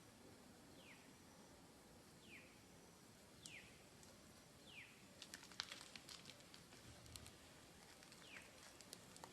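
Faint high calls, each a quick whistle falling in pitch, repeated about six times roughly every second and a half. From about five seconds in, light crackling and rustling clicks.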